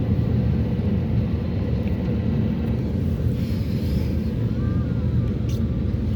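Steady car engine and road rumble heard from inside the moving car.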